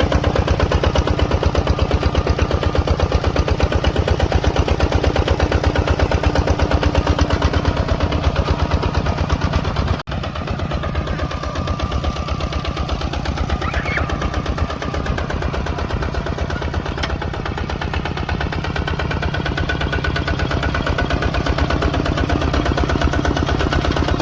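Tractor engine running under load with a rapid, even chugging beat. There is a momentary break about ten seconds in, after which it carries on slightly quieter.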